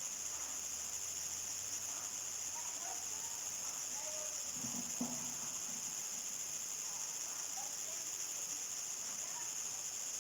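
Crickets singing in a steady, high-pitched chorus, with faint short chirps scattered underneath. A brief low sound with a soft knock comes about five seconds in.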